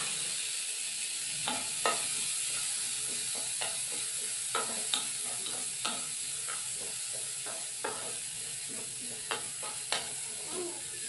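Garlic, onion and ginger sizzling in hot rendered beef fat in a metal pan: a steady sizzle with irregular scrapes and taps of a wooden spatula stirring against the pan.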